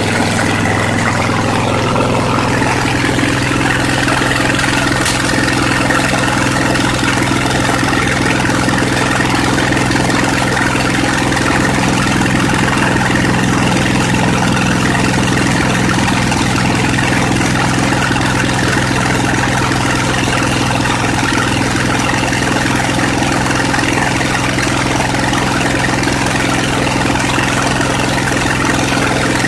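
Briggs & Stratton 22 HP Intek V-twin engine running steadily at a constant speed, with no exhaust gaskets fitted.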